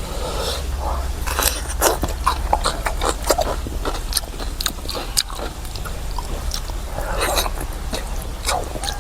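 Close-miked eating sounds: a person biting and chewing food, with irregular mouth clicks and smacks over a steady low hum.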